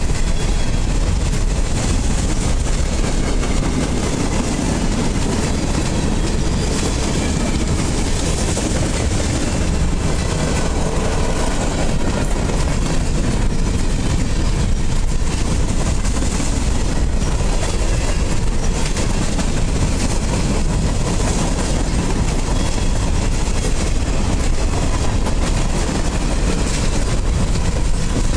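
Freight train of covered hopper cars rolling past close by, its steel wheels running steadily on the rails.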